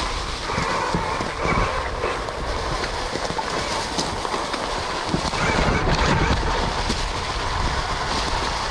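2021 KTM Freeride E-XC electric dirt bike being ridden: near-silent electric drive, so what is heard is mostly rattling and clattering from the chain and running gear, tyre noise and wind, with irregular knocks over the bumps.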